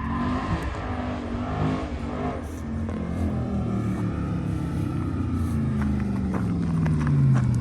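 Supercharged V8 of an 800 hp Camaro ZL1 1LE running, its revs falling steadily over the last couple of seconds as it comes off the throttle. A few sharp clicks sound near the end.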